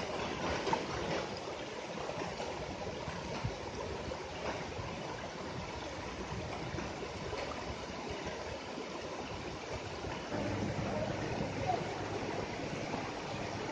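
A stream of running water, a steady rushing hiss. A low steady rumble joins it about ten seconds in.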